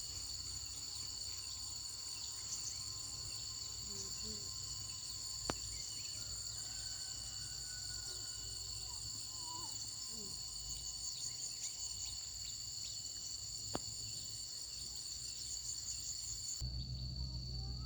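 Insects trilling steadily in two high-pitched bands over a low rumble, with two sharp clicks, one about a third of the way in and one past the middle.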